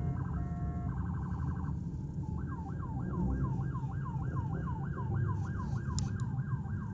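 Electronic siren cycling its tones: rapid pulsing beeps first, then after about two seconds a repeated falling whoop, about three to four a second. A steady low rumble of idling car engines runs underneath.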